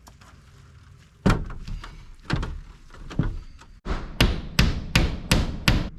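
Hammer blows on siding: three spaced strikes, then near the end a fast, even run of about three strikes a second.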